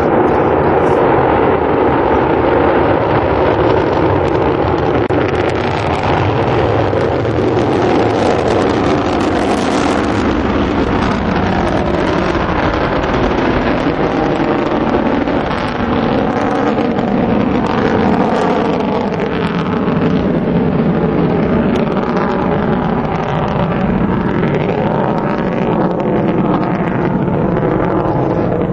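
Delta II rocket's RS-27A main engine and ground-lit strap-on solid rocket boosters roaring during the first half-minute of ascent: a loud, steady rumbling crackle that holds at the same level throughout.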